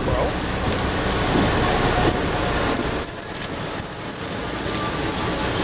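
Passing train with its steel wheels squealing against the rails: several high, wavering squeals over a low rolling rumble, getting louder about halfway through.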